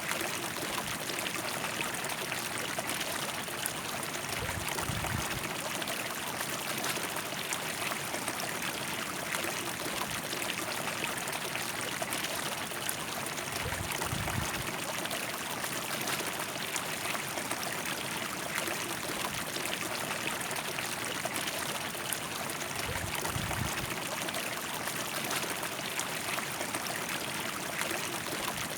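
River water rushing steadily over rocks, an even, unbroken wash. Three brief low rumbles come about nine seconds apart.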